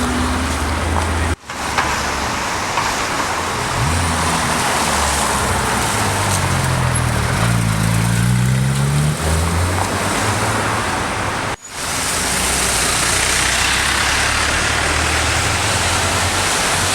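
Car engines running, with steady road and wind noise; around the middle one engine's pitch climbs as it accelerates. The sound breaks off sharply for a moment twice.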